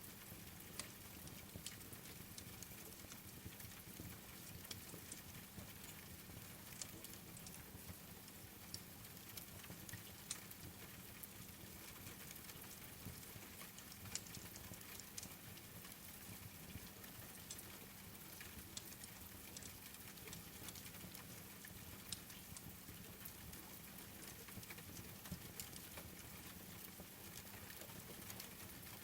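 Faint, steady rain mixed with the scattered sharp crackles of a wood fire burning in a fireplace.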